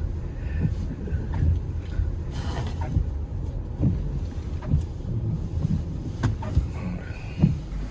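Steady low rumble of a car ferry's engines, heard from the vehicle deck, with a few scattered clunks and knocks.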